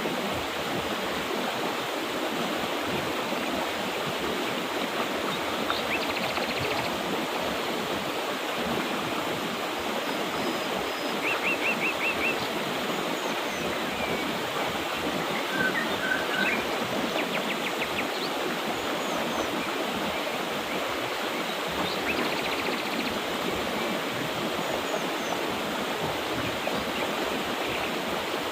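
Mountain river water rushing steadily, with birds singing now and then over it: a few short, rapid trills of chirps.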